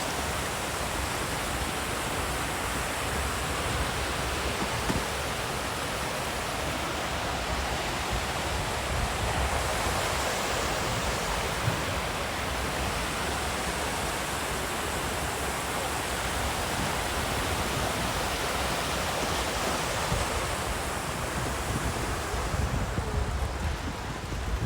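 Steady rushing noise, with wind rumbling unevenly on the microphone.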